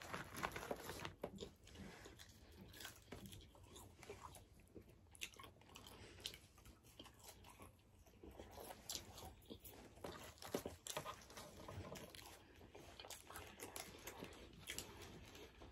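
Quiet close-up eating sounds: biting and chewing of burger, chicken wings and fries, with irregular small wet clicks and crunches.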